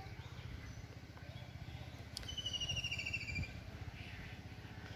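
A songbird's trill: a quick run of notes sliding slightly down in pitch for about a second, starting about two seconds in, over a faint low rumble.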